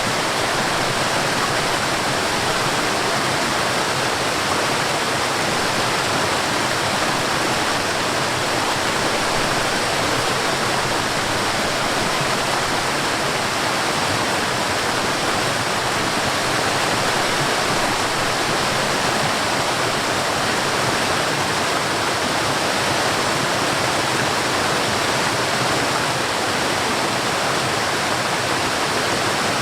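Waterfall on a mountain stream, water pouring in a steady, even rush that does not change.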